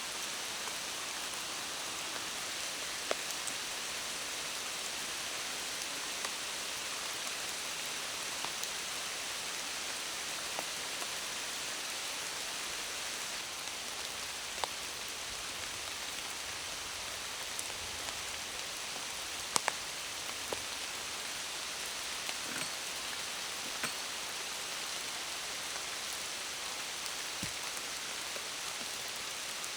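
Steady rain falling, with scattered single ticks of larger drops striking close by.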